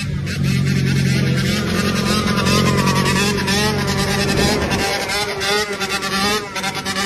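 Dirt bike engines running with wavering, pulsing revs. A steady low engine note sits under higher tones that waver up and down, and the sound grows choppier in the last couple of seconds.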